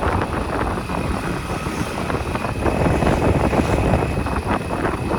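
A motorcycle engine running steadily.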